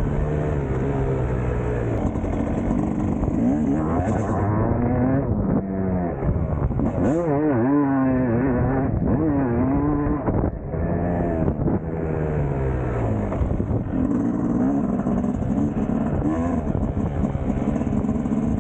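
Two-stroke 250 cc single-cylinder engine of a Yamaha YZ250 motocross bike, revved hard and then backed off over and over as it is ridden round the track. The pitch climbs and drops with each pull and shift. It briefly goes off the throttle about ten and twelve seconds in.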